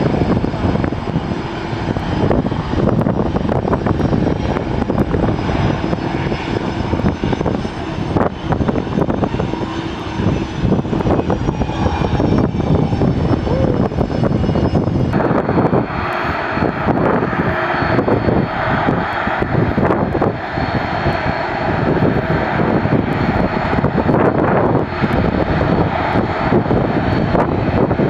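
Aircraft engines running loud and steady, with a faint high whine above the noise. The sound changes abruptly about halfway through.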